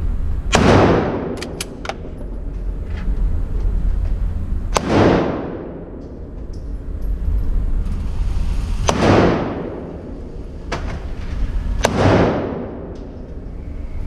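Four slow, single shots from a 9mm gun, a few seconds apart, each trailing off in a long echo, with fainter shots in between and a steady low rumble underneath.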